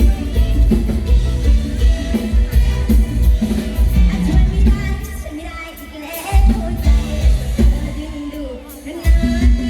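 Loud live band music with singing over a heavy, steady bass beat; the bass drops out for about a second in the middle and again for about a second near the end, then comes back in.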